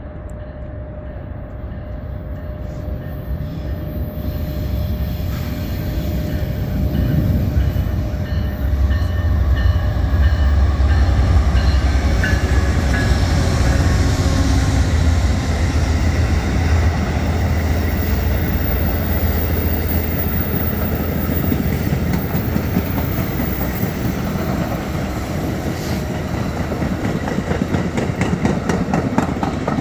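Amtrak passenger train passing: the diesel-electric locomotives, led by a GE P40DC, rumble as they approach and go by, loudest about ten to fifteen seconds in. Then the passenger cars roll past with a steady rush of wheels on rail and a rhythmic clickety-clack near the end.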